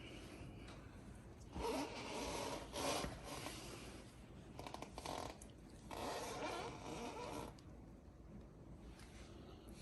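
Hands handling bike brake parts and tools: three short bursts of scraping, rustling noise, each about a second long, with a quick run of clicks about five seconds in.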